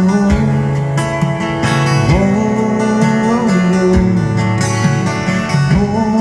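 Live country band playing an instrumental passage between sung lines, with acoustic guitar.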